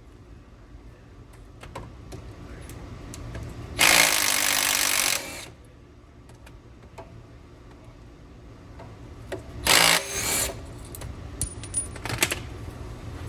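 A power tool loosening the Porsche Cayman's axle flange bolts, run twice: about a second and a half, then about a second. Small metal clicks come between the runs.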